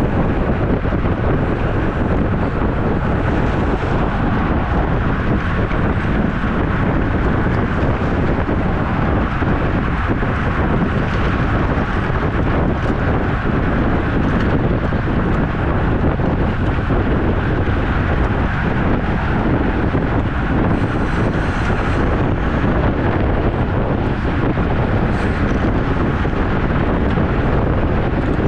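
Wind rushing over the microphone of a camera riding along on a road bike: a loud, steady rush with no breaks.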